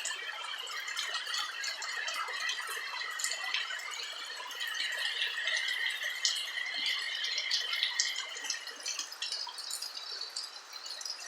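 Rain falling on a roof, heard from indoors: a dense, irregular patter of drops, with a steady high-pitched tone underneath that fades in the last couple of seconds.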